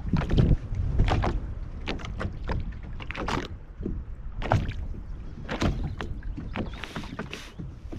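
Water lapping and slapping against the hull of a small boat in short, irregular splashes, with wind rumbling on the microphone.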